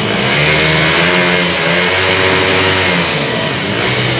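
Small-displacement drag-racing motorcycle engine revving, its pitch climbing for about two seconds and then dropping back.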